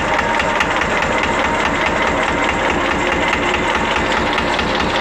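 Vintage Buck engine running steadily at idle, its firing beats coming in an even rhythm.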